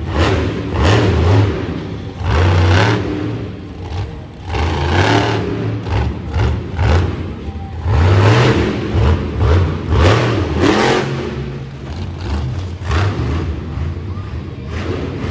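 Monster truck engine revving hard in repeated surges, each rising and falling over a second or two.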